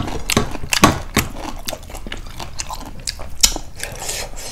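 Close-up chewing and mouth noises of people eating, with irregular wet smacks and clicks.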